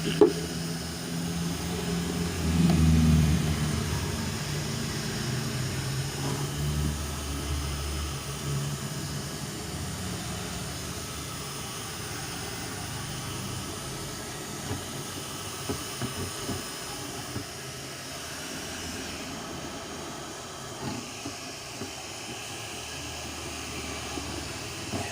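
Handheld hair dryer blowing steadily, heating the back of a car headlamp housing to soften the sealant glue so the lens can be pried off; its low hum swells and shifts in the first few seconds. A sharp click right at the start.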